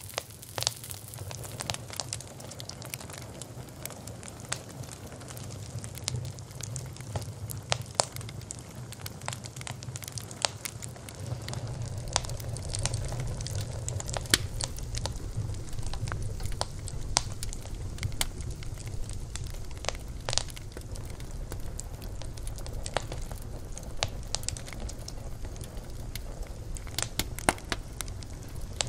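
Wood fire burning, with irregular sharp crackles and pops over a low, steady rumble of the flames.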